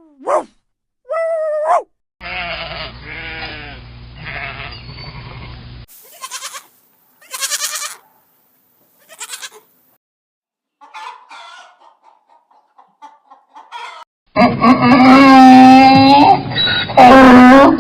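A run of farm animal calls from separate clips, cut one after another: short pitched calls, a stretch of high, sharp calls, then a quiet gap. Near the end comes a long, loud, wavering bleat, then a second shorter one.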